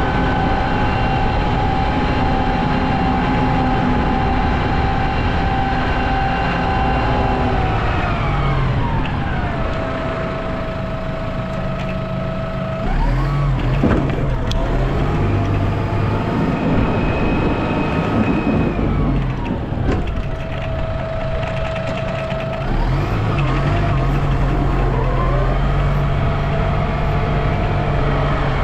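A vehicle engine running with a whine, its pitch falling and rising several times as the revs go down and back up.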